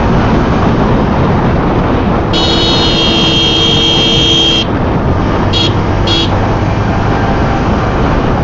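Steady rush of wind and road noise on a moving motorcycle, with a vehicle horn sounding for about two seconds a couple of seconds in, then two short toots.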